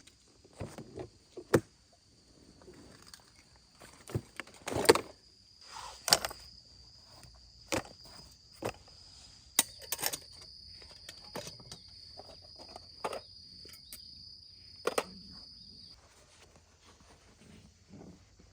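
Irregular sharp knocks, clicks and rustles of someone moving about and handling things, over a steady high-pitched insect trill that stops near the end.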